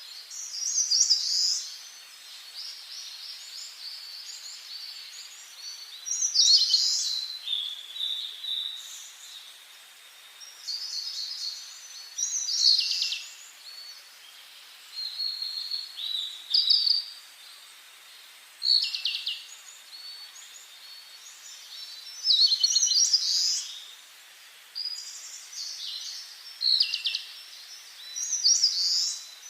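Songbirds singing short, high-pitched phrases of trills and notes, one every two to three seconds, over a faint steady hiss.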